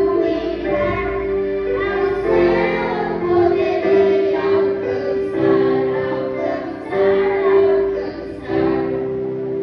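A group of children singing a song together in Portuguese, over a musical accompaniment, with long held notes.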